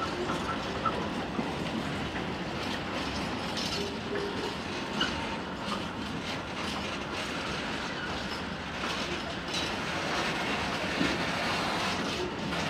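Hopper wagons of a steam-hauled freight train rolling past close by: a steady rumble of steel wheels on rail with clicking over the rail joints and a few brief, faint wheel squeals.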